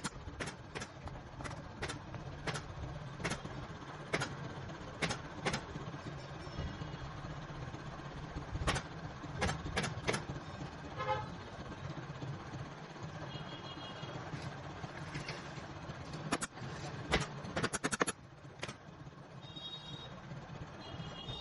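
Pneumatic upholstery staple gun firing in sharp, irregular shots, sometimes two or three in quick succession, as fabric is fixed to the sofa frame. Behind it is a steady low hum of traffic with a few short high beeps.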